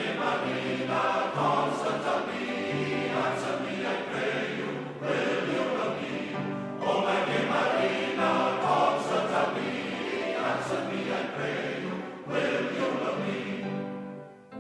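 Recorded music with a choir singing, in phrases with short breaks between them.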